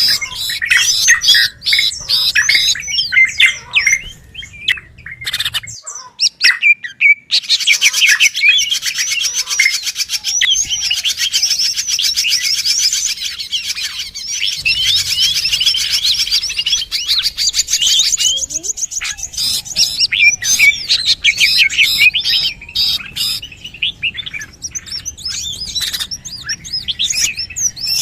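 Many small birds chirping and chattering rapidly together in a dense, overlapping chorus of high calls, from a bird-lure recording; the chatter thins briefly about six seconds in, then resumes just as busily.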